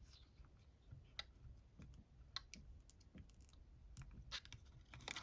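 Near silence with faint, scattered clicks and light taps from small craft items being handled on a desk.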